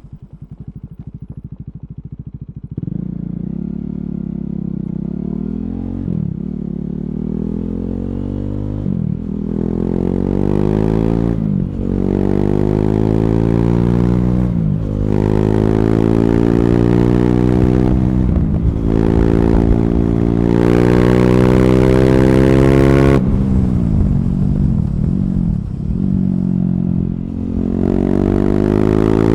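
KTM Duke 390's single-cylinder engine through an Akrapovic slip-on exhaust with a decat pipe, under load on the road. It runs low for about three seconds, then accelerates hard, its pitch climbing through each gear and dropping at each of several quick upshifts. Near the end the throttle closes, with a few short revs as it changes down, before it accelerates again.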